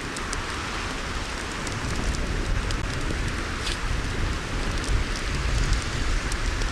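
Campfire crackling, with scattered sharp pops over a steady rushing noise.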